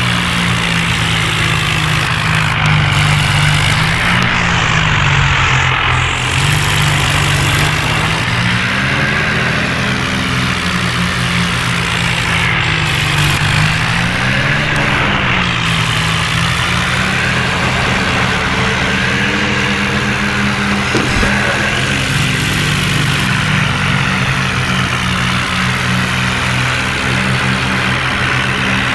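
John Deere tractor's diesel engine running steadily, its pitch rising briefly and falling back several times as it is revved.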